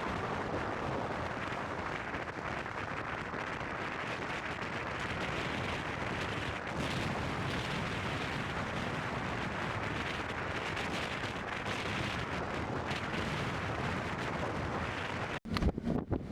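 Strong blizzard wind blowing and buffeting the microphone, a steady rushing noise that cuts off abruptly near the end.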